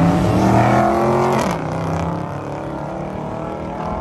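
Car engine running hard at high revs, then its pitch and loudness drop about a second and a half in, and it runs on lower.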